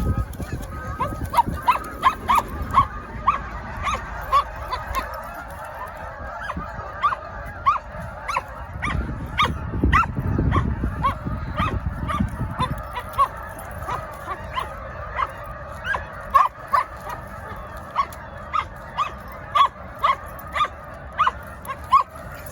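A flock of geese honking, many short calls one after another with no letup, as they are chased off into flight. A low rumble runs under the calls from about nine to thirteen seconds in.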